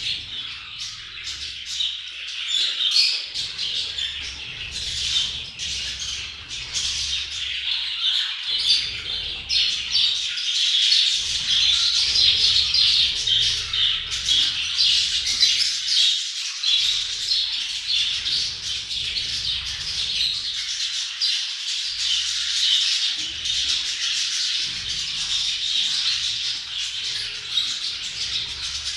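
A flock of budgerigars chattering and warbling without a break, many birds calling over one another with squawks mixed in.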